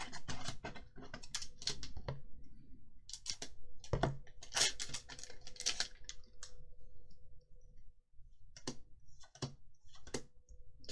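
Trading cards from booster packs handled by hand, flicked and slid one over another, giving a run of irregular sharp clicks and snaps.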